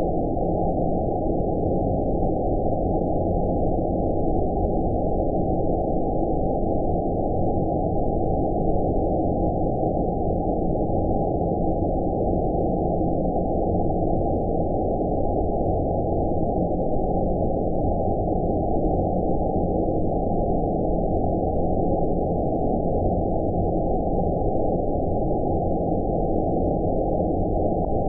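Steady, deep, muffled rushing noise with no high end: a synthetic 'outer space' sleep noise, like filtered white noise, holding an even level throughout.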